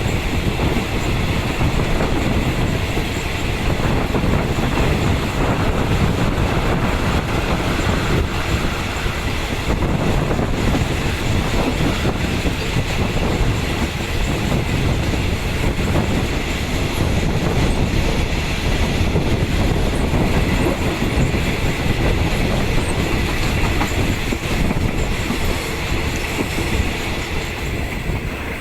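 Passenger train running at speed, heard from inside a third-class carriage: steady loud rumble of wheels on rail with clatter from the track.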